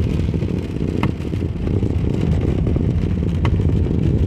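Road and engine noise inside a moving car's cabin, a steady low rumble, with two faint short ticks about two and a half seconds apart.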